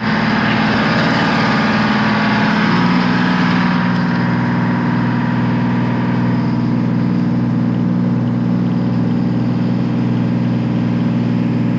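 A tour boat's engine running steadily underway, with a hiss of wind and water over it. The engine note drops slightly about three seconds in.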